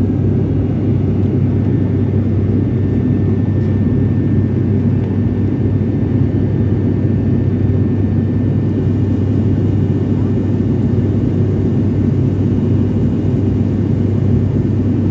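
Steady cabin noise of a passenger airliner with its engines running, heard from inside: an even low drone with a strong hum and a few faint steady whines above it.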